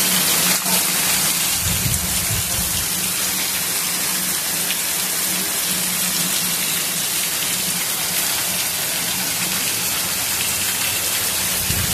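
Heavy rain pouring down onto a paved street: a loud, steady dense hiss of the downpour.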